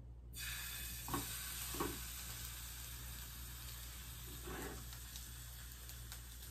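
Trout fillet sizzling in a hot oiled frying pan: a steady frying hiss that starts abruptly just after the start, with a few short louder sounds in the first two seconds and again past the middle.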